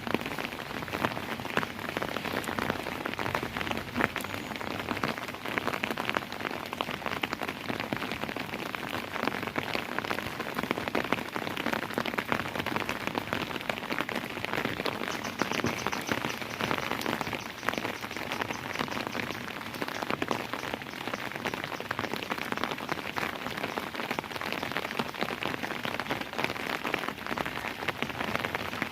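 Steady rain falling, with a dense stream of individual drops striking a nearby surface.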